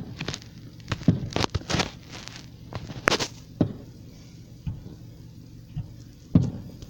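Aerial fireworks going off: a string of sharp firework bangs at uneven intervals, ending in the loudest bang about six seconds in, from a big shell burst.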